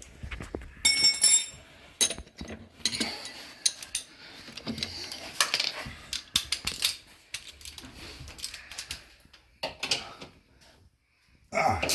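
Metal hand tools clicking and clinking against the engine while the engine mount bolts are undone, with a ringing metal clink about a second in.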